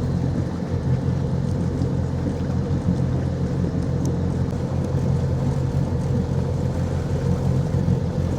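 An engine running steadily, a low even hum without changes in speed.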